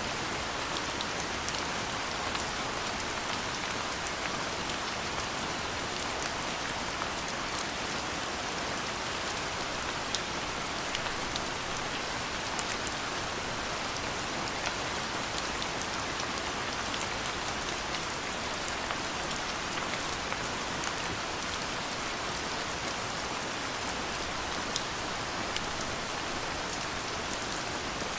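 Steady, gentle rain falling, with many small, sharp drop hits ticking through a constant hiss.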